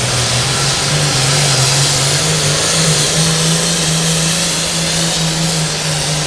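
A pulling tractor's engine running hard at high revs under load: a loud, steady drone with a lot of hiss on top.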